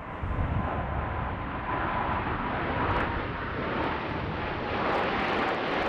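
Jet noise of the Blue Angels Diamond, four F/A-18 Hornets with General Electric F404 turbofan engines, flying past in formation: a steady, loud rushing roar, with a faint whine that sinks slightly in pitch as the jets go by.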